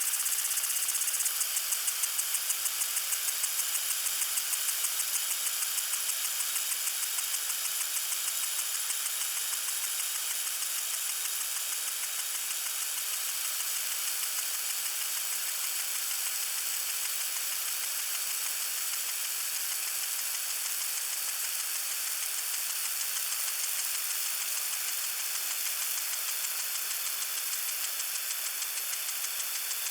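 Water sprinkler spraying: a steady hiss of water with a fast, even pulsing of about three beats a second, clearest in the first few seconds.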